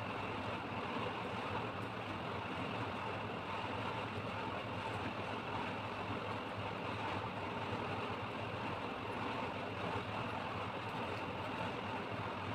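A steady mechanical hum under an even hiss, unchanging throughout.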